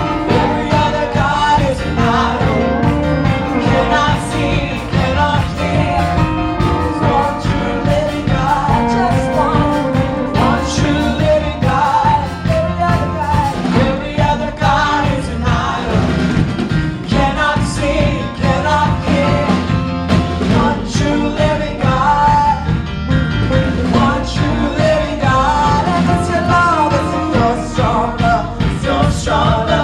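Live Christian praise and worship music: a full band with drums, bass and guitar playing an upbeat song under singing voices.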